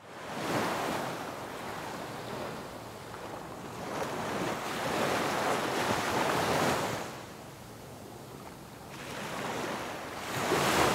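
Sea waves washing in, the rush of water swelling and fading in three slow surges.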